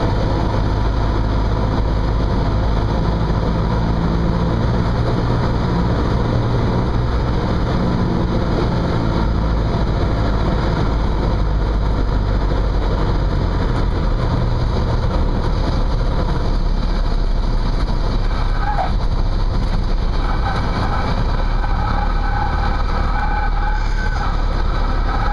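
Cessna 172's piston engine and propeller droning steadily as heard inside the cockpit. Faint higher wavering tones join it in the last few seconds.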